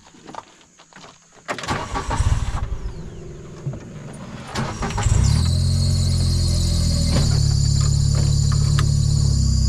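Utility vehicle (John Deere Gator) engine starting about five seconds in, after some knocks and rattles, then running steadily with a high whine over it.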